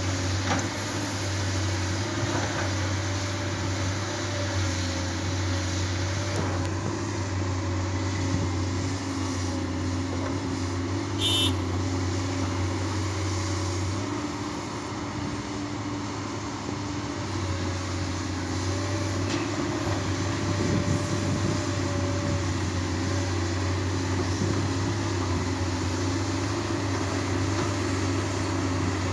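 Heavy vehicle engine running steadily with a continuous low rumble, which dips for a few seconds about halfway through before coming back.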